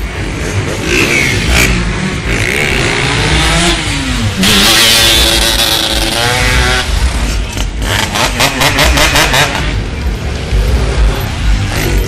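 Motorcycle engines revving and accelerating along a street. One bike is loudest as it passes close by about four to six seconds in, its pitch dropping and then climbing again.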